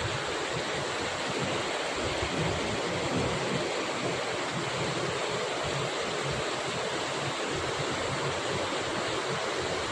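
Steady rain, an even hiss with no break, with wind rumbling on the microphone underneath.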